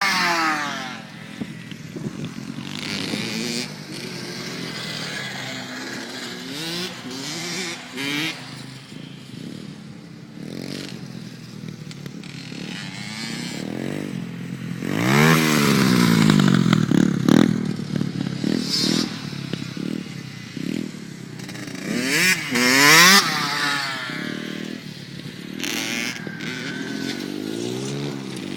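Small dirt-bike engines, a Honda CR80 two-stroke and pit bikes, revving as they ride, their pitch climbing and dropping again and again. They are loudest about fifteen and twenty-three seconds in.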